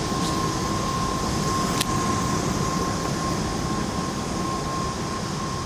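Steady background noise inside a large hangar, an even whoosh with a faint constant whine, and one faint click about two seconds in.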